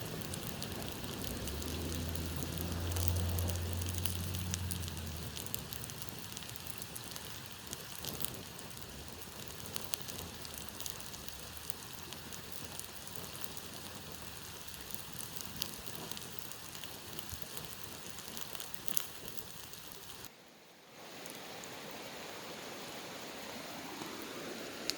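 Campfire burning, with steady hiss and frequent sharp crackles and pops of burning wood. A low rumble comes in the first few seconds, and the sound drops out briefly about 20 seconds in before the fire noise resumes.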